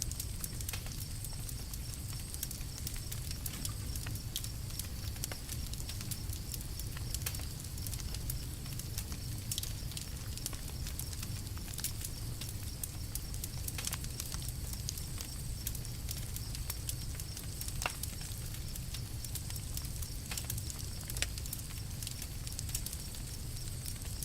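Campfire crackling: scattered sharp pops and snaps over a steady low rumble of burning.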